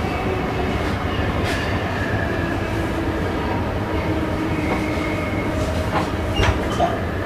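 Passenger train running along the track, heard from the driver's cab: a steady rumble with faint whining tones and a few sharp clicks from the wheels and track, the loudest near the end.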